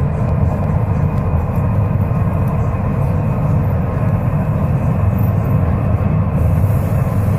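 MTR South Island Line S-train running on the track, heard from inside the passenger car: a steady, deep rumble of wheels and running gear with no change in pitch.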